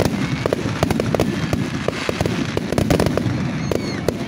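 Fireworks display: aerial shells bursting in a dense barrage, several bangs and crackles a second over a continuous low rumble.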